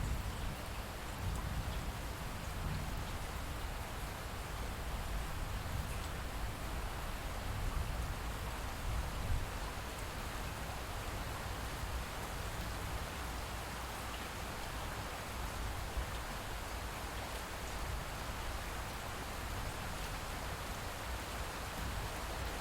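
Steady light rainfall, an even hiss of drops, with a low, distant rumble of thunder underneath that fades out about halfway through.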